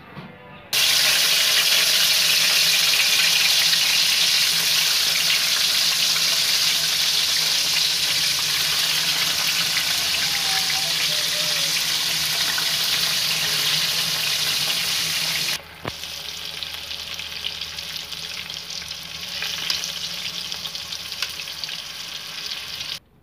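Stuffed bitter gourds sizzling loudly and steadily in hot oil in a metal karahi. After a cut about two-thirds of the way through, the sizzling goes on a little quieter, with scattered crackles.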